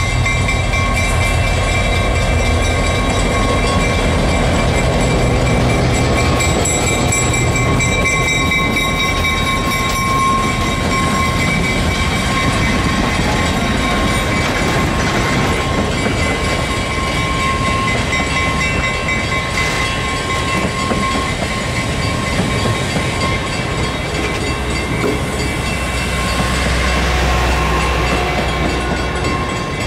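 A train running by: locomotive and cars rumbling steadily on the rails, with the low rumble swelling near the end.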